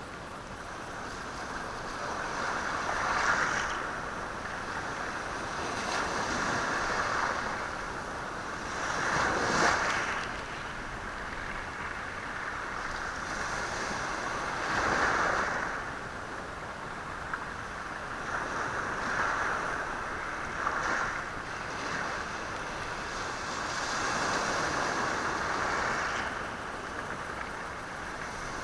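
Sea waves washing onto a rocky shore, rattling the stones. Each surge rises and falls every few seconds, the strongest about 3, 9 and 15 seconds in.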